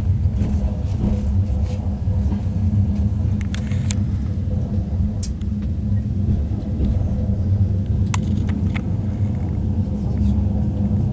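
Passenger train rolling slowly out of a station, heard from on board: a steady low rumble of the carriage running on the track, with a few short sharp clicks.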